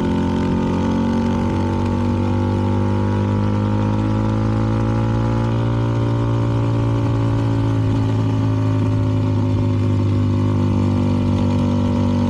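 CFMoto 300NK's single-cylinder engine with an aftermarket KO exhaust, running steadily under way. Its pitch rises slightly and eases back around the middle.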